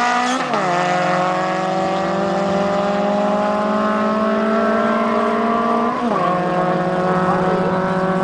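Honda Civic four-cylinder engines accelerating hard at full throttle in a drag race, the engine note climbing slowly in pitch through each gear and dropping sharply at upshifts about half a second in and about six seconds in.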